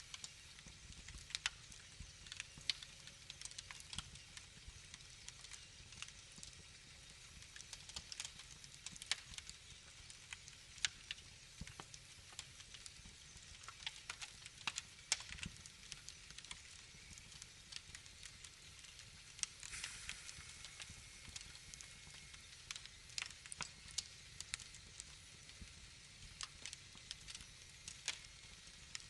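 Wood fire in a fireplace, crackling with irregular sharp pops over a soft steady hiss, and a brief hissing flare about twenty seconds in.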